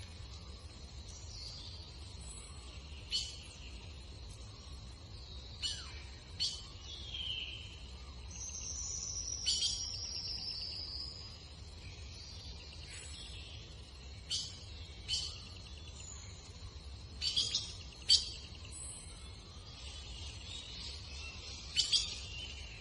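Birds at an egret colony calling: scattered short, sharp calls, a longer high call about nine to eleven seconds in, and the loudest calls near the end, over a steady low hum.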